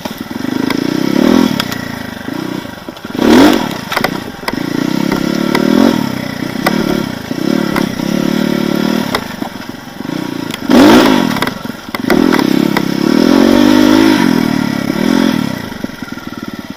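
Off-road motorcycle engine revving up and dropping back over and over as it works over logs, with two sharp rev surges about three and eleven seconds in. Knocks and scraping clatter from the bike run through it.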